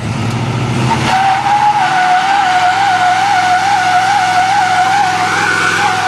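Excavator engine working hard under load, with a loud high-pitched squeal that starts about a second in, wavers slowly up and down in pitch, and holds until it cuts off abruptly.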